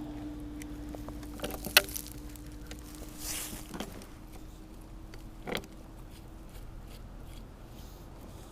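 Handling noises: a quick cluster of sharp clicks about two seconds in, a brief rustle, then two more single clicks, over a faint steady hum.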